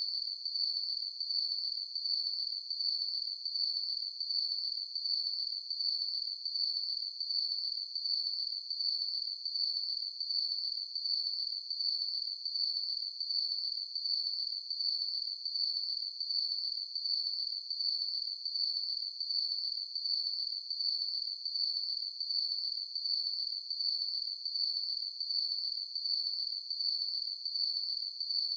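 Crickets chirping: a high, even trill that pulses steadily, about one and a half pulses a second.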